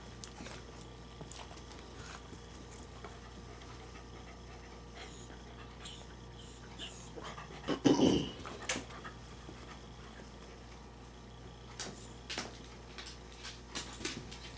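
Bichon Frise dog panting softly. A brief louder sound comes about eight seconds in, and a few light clicks follow near the end.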